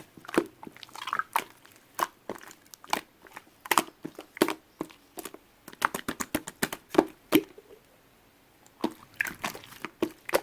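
Handmade marbled squishy ball being squeezed and handled by hand: irregular sticky crackles and squishes, with a pause about eight seconds in.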